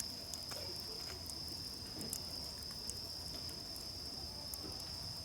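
Crickets singing in a steady, unbroken high trill, with scattered faint crackles from a campfire.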